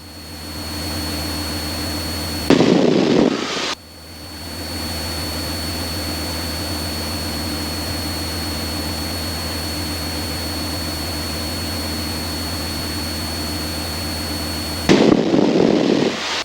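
Light aircraft's piston engine and propeller droning steadily through the headset intercom. It is broken twice, about two and a half seconds in and again near the end, by loud crackly bursts about a second long that drown out the drone.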